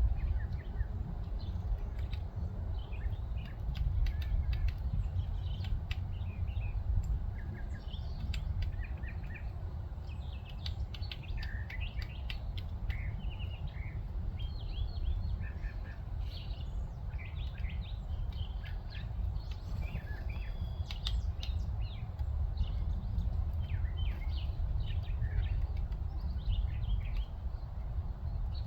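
Several wild birds chirping and calling in short, quick notes, over a steady low rumble.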